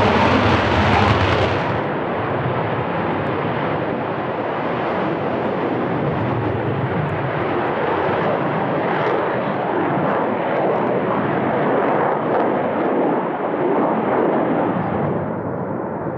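Saab 37 Viggen's Volvo RM8 afterburning turbofan jet engine, a loud, rough, rumbling rush of jet noise. Its highest hiss drops away about two seconds in, and the heavy rumble then holds steady.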